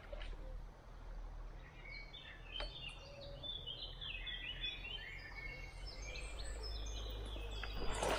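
A small songbird singing a run of short, quick chirping notes from about two seconds in, over a low steady rumble. Near the end a louder rushing noise comes in.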